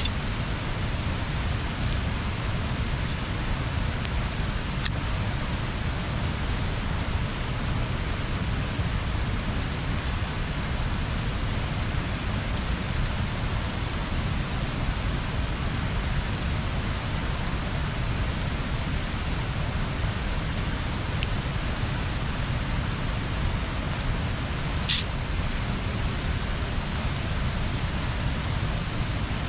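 Wood bonfire burning: a steady hiss with occasional small crackles and one sharper pop about twenty-five seconds in.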